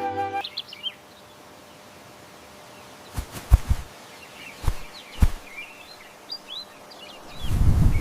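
Small birds chirping over a faint forest ambience, with a few short low thumps in the middle and a low rumble swelling near the end. Music cuts off just at the start.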